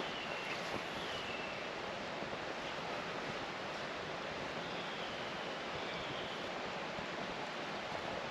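Steady rushing of a flowing river through a valley, with a few faint, short, high chirps over it.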